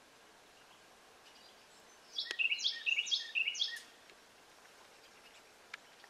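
A songbird singing one short phrase of four quick repeated notes, each sweeping down in pitch, about two seconds in, over a faint steady outdoor hiss. A single sharp click comes just before the song.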